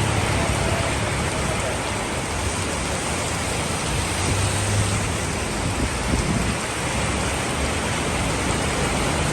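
Heavy rain pouring down in a steady rush, with a faint low hum underneath that swells about four to five seconds in.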